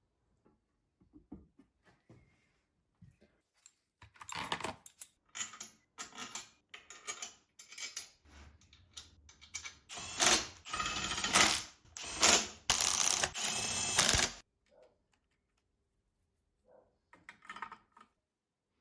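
Irregular clicks and metal-on-metal clattering of tools and parts being handled. The clatter is loudest, with a ringing edge, from about ten to fourteen seconds in.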